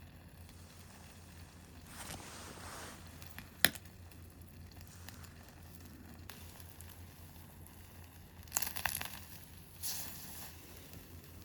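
Campfire burning quietly with one sharp pop a little over three and a half seconds in, and a few short crackling, rustling bursts near the end.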